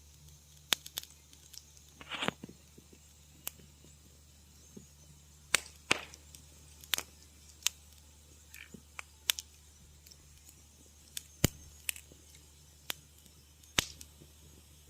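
Wood fire in a fireplace crackling: irregular sharp pops and snaps, some single and some in short clusters, over a faint steady low hum.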